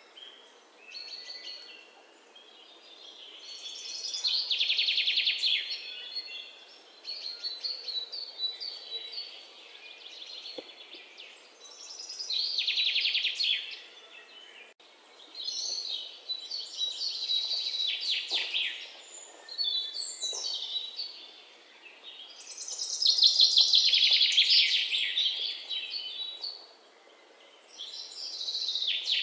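Songbirds singing: loud bouts of rapid, trilled chirping every few seconds, with quieter chirps in between.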